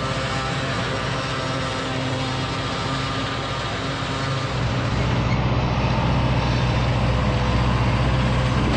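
Farm tractor engine running steadily, growing louder about halfway through with a stronger low hum.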